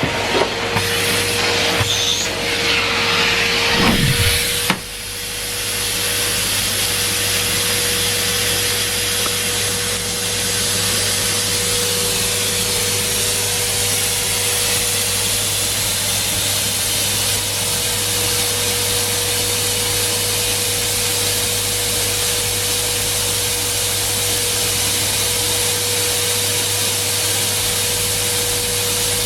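Numatic Henry Pet vacuum cleaner running, a steady motor hum over rushing air. For the first few seconds irregular rubbing and knocking runs over it, with a falling sweep and a short dip about four to five seconds in, after which the suction runs on evenly.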